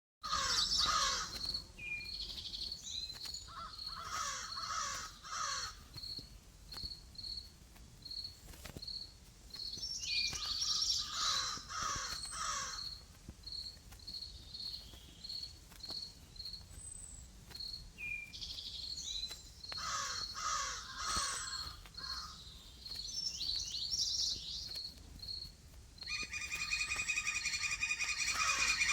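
Recorded outdoor nature ambience: bursts of bird calls every few seconds over a steady, evenly repeated high chirp of an insect, with a denser, rapid trill near the end.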